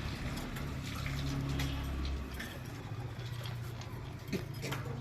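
Budgerigar colony chirping, short sharp chirps scattered irregularly over a low steady hum.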